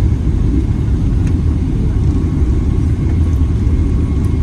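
Steady low rumble inside the cabin of a Boeing 777-300ER, with a faint steady whine above it.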